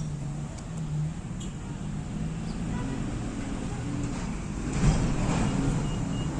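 Road traffic noise: a steady low drone of passing vehicles, with a louder swell about five seconds in.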